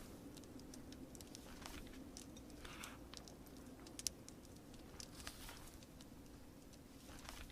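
Faint crackling fire ticking and popping at irregular moments, with one sharper snap about four seconds in, over a steady soft hiss of rain. A few brief paper rustles of pages being turned come in between.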